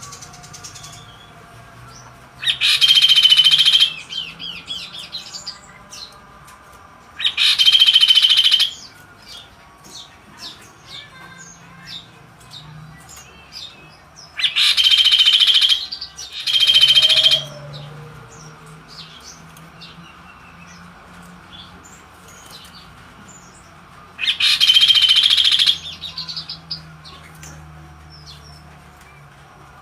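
Kaso-kaso bird singing in loud, harsh bursts of about a second and a half, five times, two of them back to back, with faint short chirps in between.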